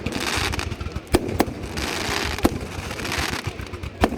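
Fireworks going off: a handful of sharp bangs spread through the few seconds, over a running crackle and hiss from bursting shells.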